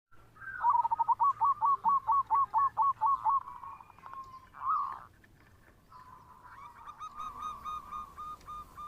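Zebra dove (perkutut) singing: a quick run of about a dozen short cooing notes, about four a second, then a single longer coo, followed by a fainter run of notes.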